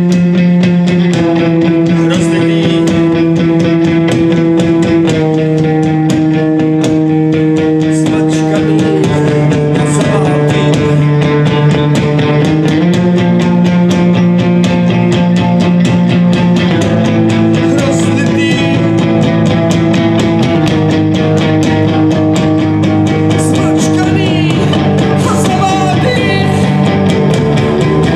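Loud live rock music: guitars play held chords that change every few seconds over a fast, dense pulse.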